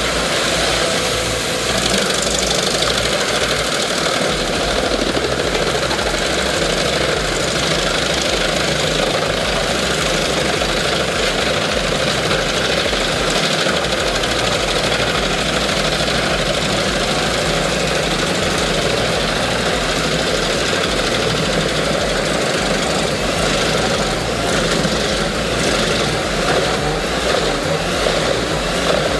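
Albach 2000 wood chipper running steadily: a continuous, loud engine-and-machinery noise with no breaks.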